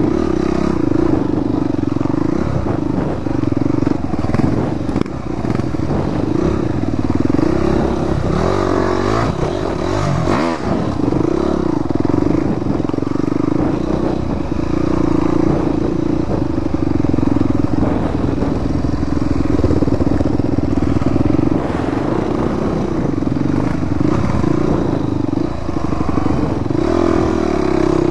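Dirt bike engine running as the bike is ridden, its note wavering up and down with the throttle.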